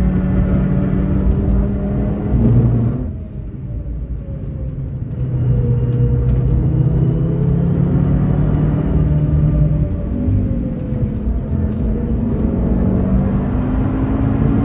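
2013 Audi TT RS's turbocharged five-cylinder engine, heard from inside the cabin, pulling hard on track. About three seconds in the driver lifts off and the engine note drops and quietens for a couple of seconds before it pulls again in fourth gear. About ten seconds in the revs step up with a shift down to third and it runs toward 6,000 rpm.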